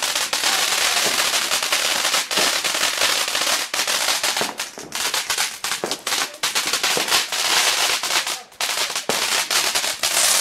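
Fireworks crackling: a dense, loud barrage of rapid pops and crackles that thins out into more separate bangs in the second half.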